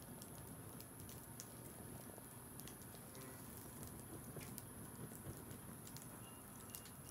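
Wood campfire crackling faintly, with irregular small snaps and pops.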